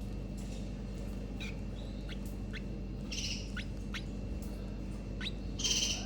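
Canaries giving a string of short, sharp chirps, with two brief raspy calls, one about three seconds in and a louder one near the end, over a steady low hum.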